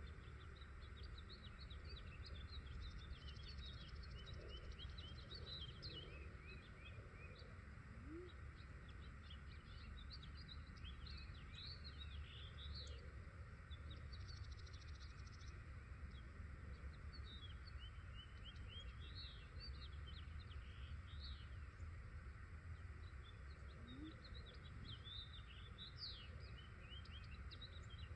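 Small birds chirping in short, quick, high calls scattered throughout, over faint steady low background noise.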